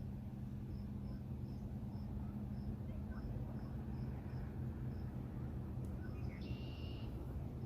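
Crickets chirping in a steady pulse, a few short high chirps a second, over a low steady hum. A brief higher note sounds near the end.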